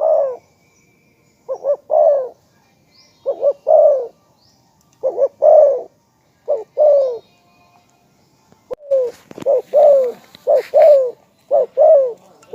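Spotted dove cooing in repeated phrases, each two short notes followed by a longer falling coo. The phrases come at a steady pace, then about twice as fast in the second half, with a brief rustling noise partway through.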